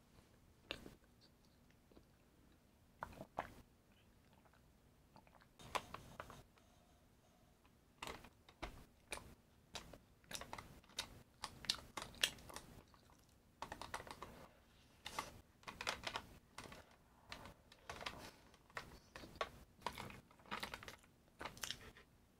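Close-miked chewing of crunchy food: crisp, rapid crunches, a few scattered at first and coming in quick runs from about eight seconds in.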